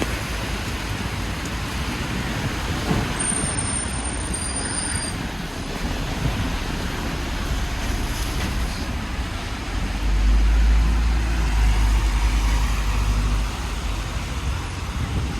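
Road traffic on a wet city avenue, a steady hiss of tyres and engines. A brief high-pitched whine comes about three seconds in, and a heavier vehicle passes with a low rumble about ten seconds in.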